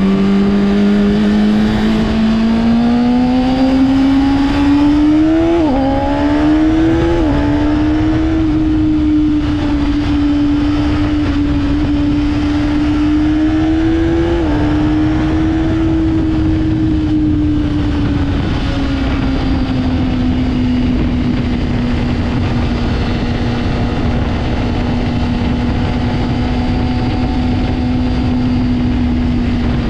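Honda CBR600RR's inline-four engine running under load. Its pitch climbs over the first several seconds, with three brief drops about six, seven and fourteen seconds in. It then holds a steady note and slowly eases lower.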